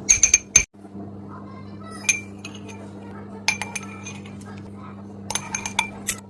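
A metal spoon clinking against a bowl in groups of quick ringing taps: a fast run of four at the start, a single tap about two seconds in, then more runs toward the end. A steady low hum runs underneath.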